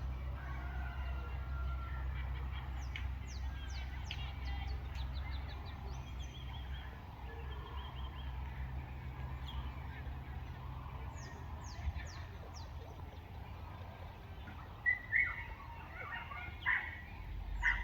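Morning birdsong in a rural village: runs of quick, high, falling chirps from small birds, repeated several times. A few louder, lower calls come about fifteen seconds in, over a steady low rumble.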